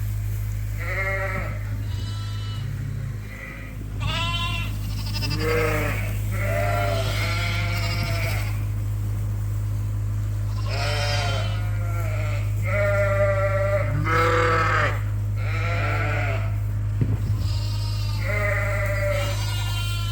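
A flock of Dorset sheep bleating over and over, mostly high-pitched lamb calls, one after another with barely a pause, over a steady low hum.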